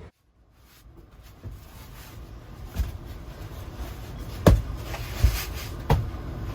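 Strong wind buffeting a camper van, heard from inside as a low rumble, with a few sharp knocks in the second half.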